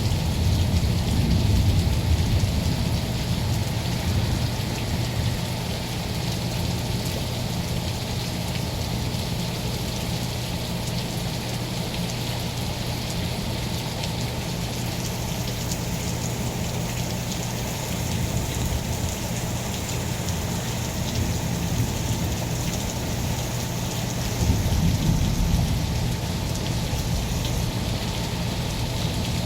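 Steady rain falling in a thunderstorm, with a low rumble of thunder dying away over the first few seconds and another rumble swelling briefly near the end.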